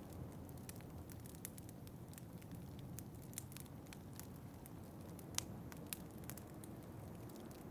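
Wood fire crackling in a fireplace: irregular sharp pops and snaps, one louder pop about five seconds in, over a steady low rush of flame and wind.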